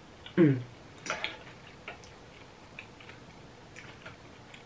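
Close-miked eating: a brief vocal 'mm' that falls in pitch about half a second in, then a sharp smack about a second in and small wet chewing clicks every second or so.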